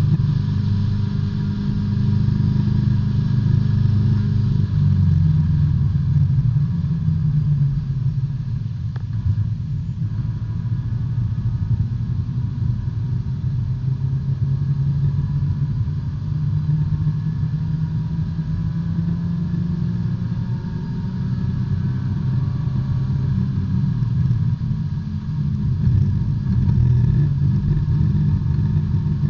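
B-Spec race car's four-cylinder engine running, heard from inside the cabin, at a low, fairly steady pitch that shifts a few times as the revs change.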